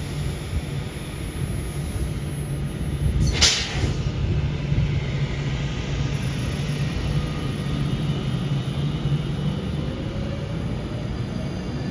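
A train's steady low rumble and hum, with one short, sharp hiss about three and a half seconds in.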